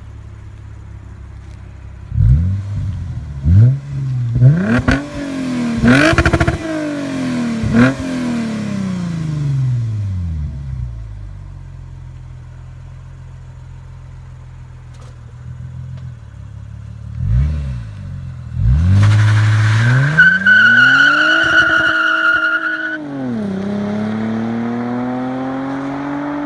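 2007 Lexus GS350's 3.5-litre V6 through a custom exhaust: idling, then revved in a run of quick throttle blips that fall back to idle. Near the end there is a short blip, then a higher rev held for about three seconds that drops and then climbs slowly again.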